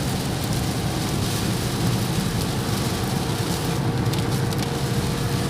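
Steady noise of a car driving in rain: the engine and tyres on the wet road, with rain on the car.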